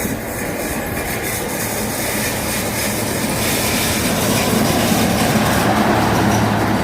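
Diesel locomotive running as a train approaches, growing steadily louder, with a steady low engine hum under the rail noise.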